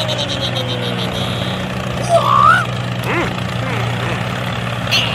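RC truck engine sound running steadily as a low hum. A quick run of high beeps comes right at the start, and short squeaky pitch glides follow about two and three seconds in.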